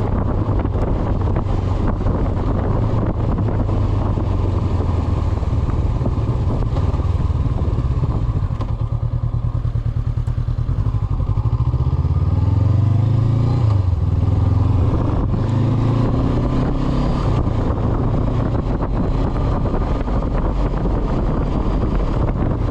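Honda CB500X motorcycle's parallel-twin engine running under way, its note rising and falling about halfway through as the throttle changes, with wind on the microphone.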